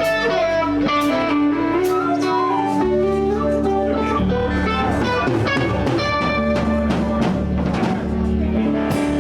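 Live blues band playing: an electric guitar runs a melodic line over bass and a drum kit that hits about once a second.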